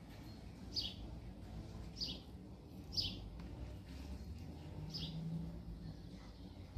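A bird chirping: four short, high, slightly falling chirps spread a second or so apart, over a faint low hum.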